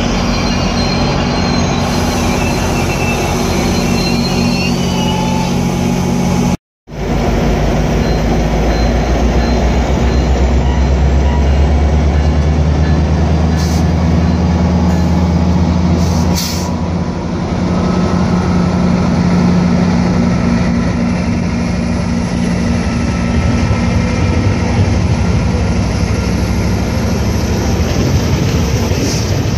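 Diesel commuter locomotive running with a steady low engine drone beside bilevel coaches. After a cut, a diesel locomotive hauling bilevel coaches passes close by: its engine is loudest until about halfway, then the coaches' wheels roll past on the rails.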